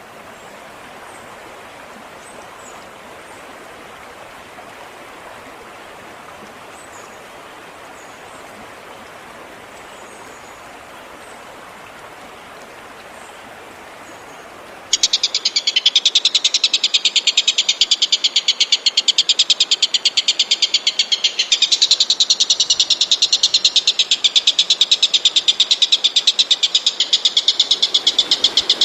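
Recorded training call for cage songbirds. It starts as a faint hiss with a few thin, high chirps. About halfway through, a loud, very fast, even rattling trill cuts in abruptly and goes on.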